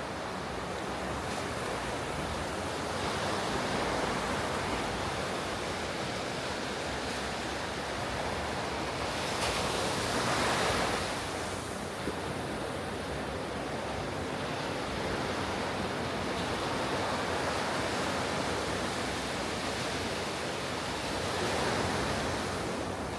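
Ocean waves breaking on a beach, a continuous surf wash that swells as each wave comes in, with the biggest breaks about ten seconds in and again near the end. A light wind rumble sits on the microphone underneath.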